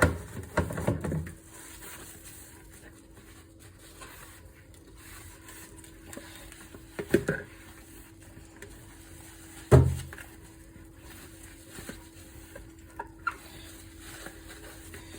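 Kitchenware being handled, with dishes and pans clattering and knocking. A cluster of knocks comes in the first second or so, then single heavy knocks about seven and ten seconds in, over a faint steady hum.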